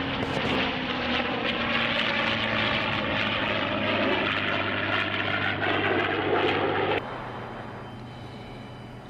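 Fixed-wing military aircraft passing close by with loud engine noise and a slowly falling tone, cut off abruptly about seven seconds in; a much quieter, steady engine sound follows.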